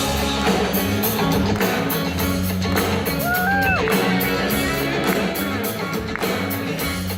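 Live rock band playing an instrumental passage, guitar over bass and drums, with one note bending up and back down about three seconds in.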